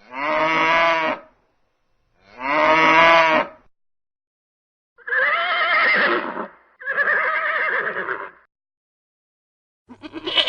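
Farm animal calls: four long, pitched calls in two pairs, each lasting over a second, then a quavering, rapidly pulsing call starting near the end.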